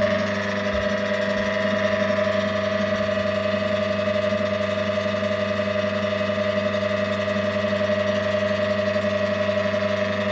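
Electric motor of a 1960s Primus mini single-tub washing machine running with a steady hum on a test run.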